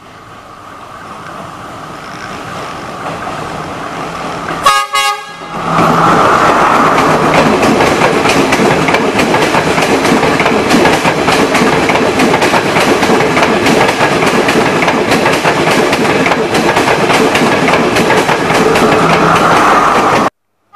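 Sri Lankan Class S14 diesel multiple unit approaching and growing louder, sounding a short horn blast about five seconds in. It then passes close at speed with a loud, continuous rumble and rapid wheel clatter over the rails, which cuts off abruptly near the end.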